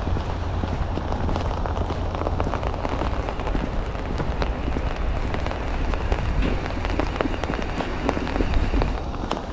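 Sleet and rain pattering steadily, a dense spray of small ticks, with footsteps on wet ground and a low rumble underneath.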